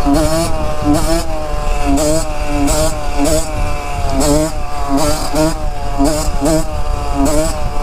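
Off-road vehicle engine held at high revs for a burnout, its pitch dipping and recovering over and over.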